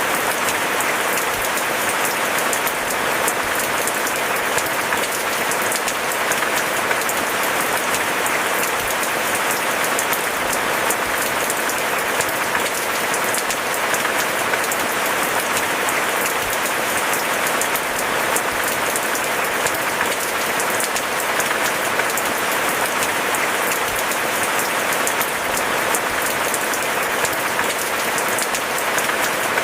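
Steady rain: a dense, even patter of many drops that holds without a break.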